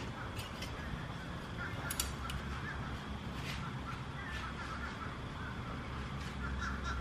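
Quiet outdoor background with a steady low rumble, faint bird calls and a few light clicks, one about two seconds in.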